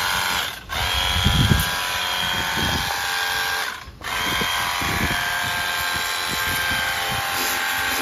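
Handheld power tool running steadily with a high whine, stopping briefly under a second in and again about four seconds in, with knocks and scraping underneath.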